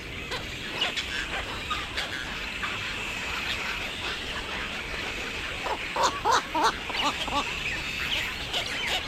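Birds calling, with scattered short calls over a steady high background tone and a quick run of loud, repeated calls about six seconds in.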